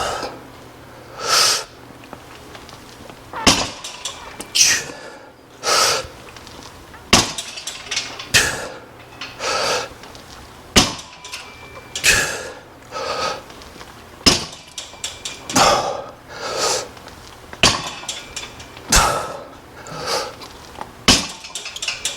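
A set of barbell pin squats: the loaded bar clanks down onto the squat rack's safety pins about every three and a half seconds, with hard breaths and forceful exhales between the reps.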